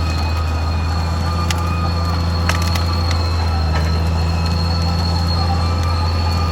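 Caterpillar D6R XL bulldozer running steadily: a deep diesel drone with a steady high whine over it, and a few sharp clanks between about one and a half and four seconds in.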